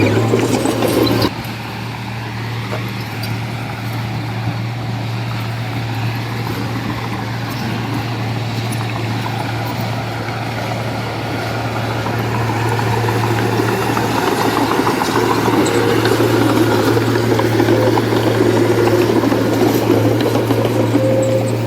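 Heavy diesel engine of earthmoving machinery running with a steady low hum; it drops suddenly about a second in, then works harder and louder through the second half.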